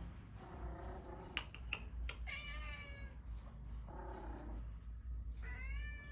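Cats meowing: two higher meows, about two seconds in and near the end, alternating with lower, shorter calls, and two sharp clicks just before the first high meow.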